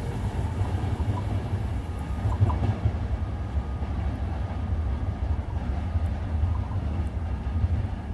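Intercity passenger train rolling away along the tracks, its low rumble slowly fading as it recedes.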